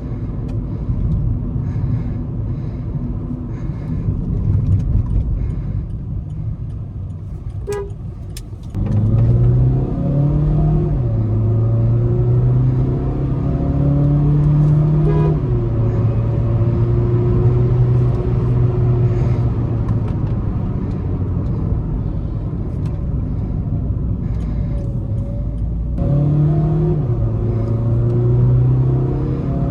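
Volkswagen Vento 1.5 TDI four-cylinder diesel engine and exhaust: a low rumble at first, then about nine seconds in the note turns louder and its pitch climbs under acceleration, dropping back at each shift of the DSG gearbox.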